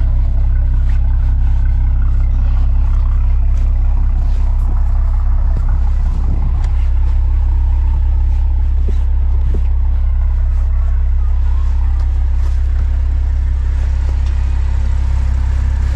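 BMW M340i running with a loud, steady low drone and a few faint clicks on top.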